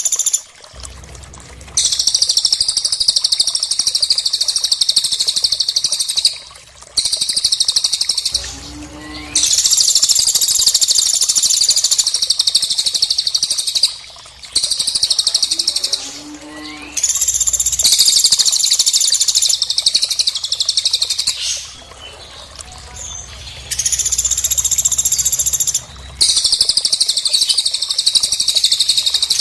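Recorded bird song: a dense, high-pitched trilling song in bursts of about two to five seconds with short pauses between them. Two brief lower sliding calls come about a third and halfway through.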